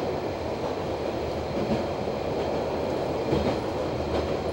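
Running noise of a Noto Railway NT100 diesel railcar heard from the cab: a steady engine and wheel rumble, with a couple of faint clicks from the wheels over the rails late on.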